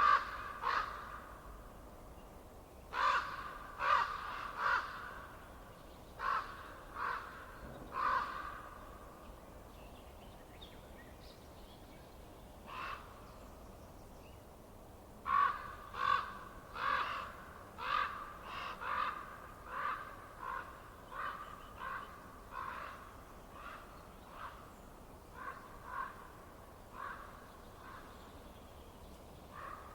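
A bird giving short, harsh calls in bouts, roughly one to two a second, with the longest run in the second half.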